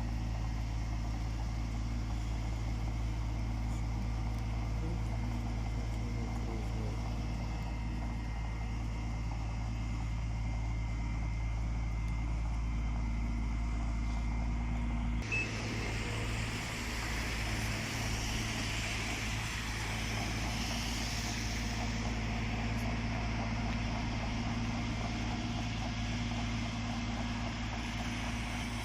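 A car running steadily, with a constant low engine hum and road noise. About halfway through, the low hum changes and a louder hiss of rushing noise comes in.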